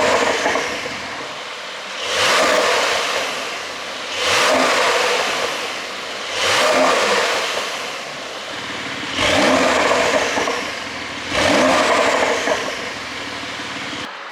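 Porsche 911 Carrera 4S (992) twin-turbo flat-six revved in a series of about six short throttle blips, roughly two seconds apart, each rising quickly in pitch and dropping back to idle. The exhaust flaps are held fully open by an ECU tune.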